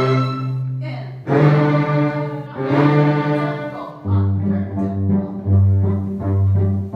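Orchestral music led by bowed strings, playing long held low notes. About four seconds in it moves to shorter, pulsing notes.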